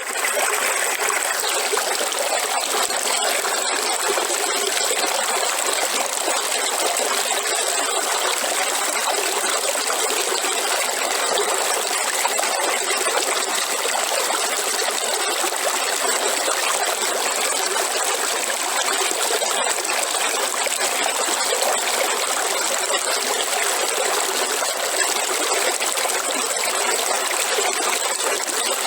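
River water flowing steadily, a continuous rushing and babbling of water over rocks with no change in level. It drops out for an instant right at the start.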